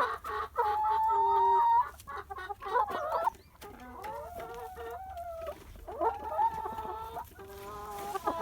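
Chickens clucking and calling, several birds at once, with one long drawn-out call about a second in.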